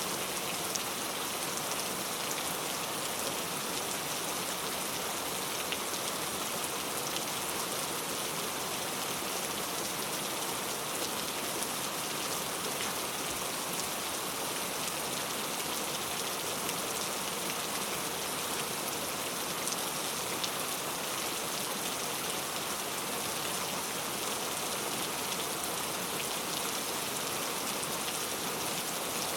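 Steady rain falling: an even wash of drops, with a few sharper single drops standing out.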